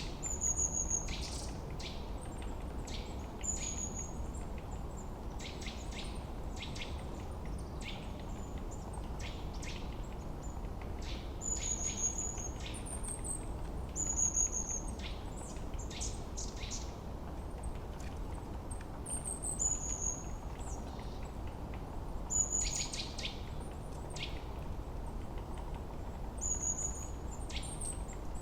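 Forest birdsong: several birds chirping, with a thin high whistle that slides down and recurs every couple of seconds, over a steady low rush of background noise.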